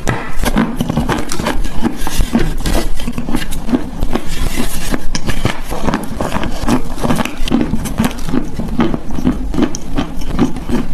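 Close-miked crunching and chewing of eating chalk: dense crackling snaps with a steady run of chewing bites.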